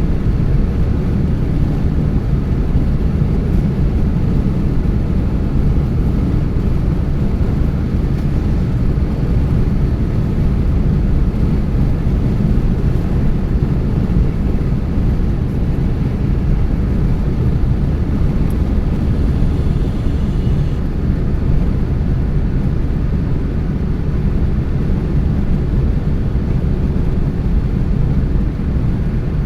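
Car driving at steady speed: a continuous low rumble of tyre, road and engine noise.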